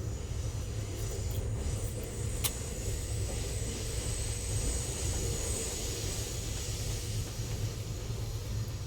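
Passenger train running, heard on board as a steady low rumble with a high hiss that swells in the middle, and a few sharp clicks, one about two and a half seconds in.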